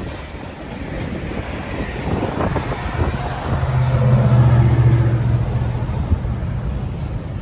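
Union Pacific train rolling past, with a diesel locomotive's low engine hum swelling to its loudest about four to five seconds in, then easing off.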